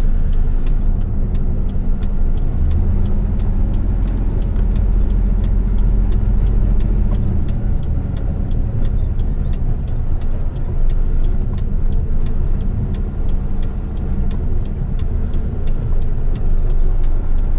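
Heavy rigid truck's diesel engine running steadily, heard from inside the cab as a low rumble, with a light regular ticking about three times a second over it.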